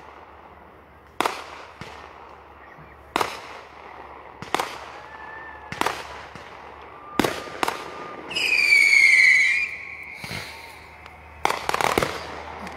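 Aerial fireworks exploding in a string of sharp bangs, roughly one every second or two. Just after the middle comes a loud high whistle lasting about a second and falling slightly in pitch, and near the end a burst of rapid crackling.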